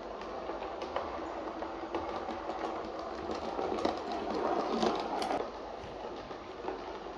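Kleinbahn model of an ÖBB 5047 railcar running on a model railway track after repair: a steady motor hum with small clicks from the wheels over the rails. It gets louder about three and a half seconds in, then drops back suddenly a little after five seconds.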